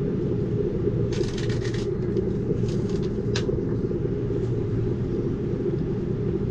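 Steady low rumble of an Amtrak Cascades passenger train running along the track, heard from inside the coach, with a few brief higher clattering sounds about a second in and around three seconds in.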